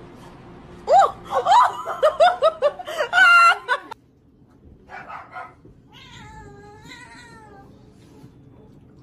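A cat meowing loudly in a quick run of short calls that rise and fall for about three seconds, then cutting off abruptly; a few seconds later comes a quieter, drawn-out call.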